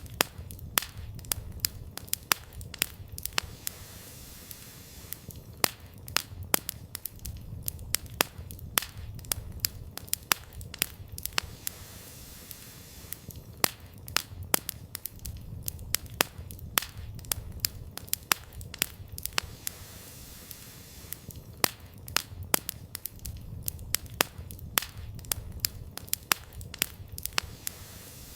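Wood campfire burning: frequent sharp, irregular crackles and pops of the firewood over a low, uneven rumble of the flames.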